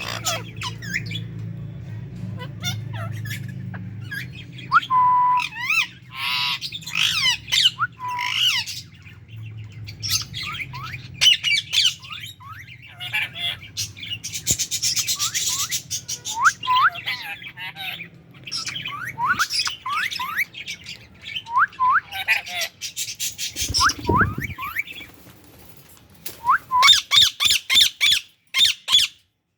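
Indian ringneck parakeets calling: a stream of short rising chirps and harsh squawking screeches, with a held whistle about five seconds in and bursts of dense screeching in the middle and near the end. A low steady hum runs under the first two-thirds.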